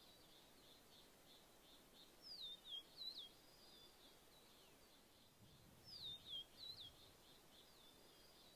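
Faint bird calls: two short bursts of sharp, high, down-slurred chirps, about two and a half and six seconds in, over a soft continuous run of small high chirps.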